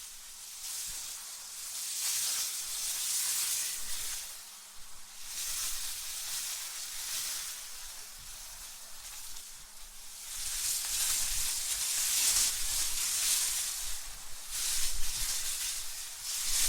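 AI-generated wind: a hissing rush that rises and falls in several gusts, with a faint low rumble under the strongest ones.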